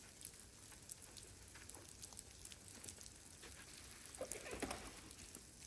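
Freezing rain falling, heard as faint scattered ticks and pattering of drops, with a brief rustle about four seconds in.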